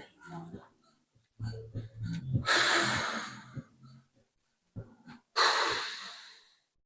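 A person breathing hard from exertion during a bodyweight exercise set: two long, forceful exhalations about three seconds apart.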